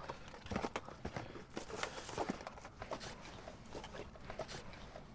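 Irregular light clicks and rustles of snack packets being handled and opened.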